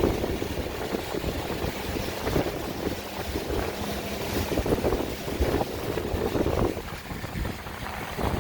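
Wind buffeting the microphone and water rushing against the hull of a moving boat, an uneven rumbling noise.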